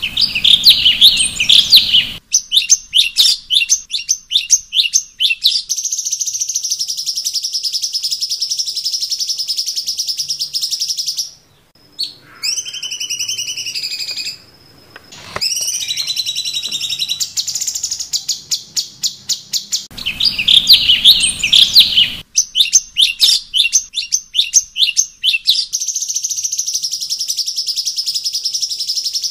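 Cucak cungkok song on a looped training recording: a burst of fast, loud chattering notes, then a long steady high trill, a short break, and a few clear sliding whistles. The same sequence starts over about twenty seconds in.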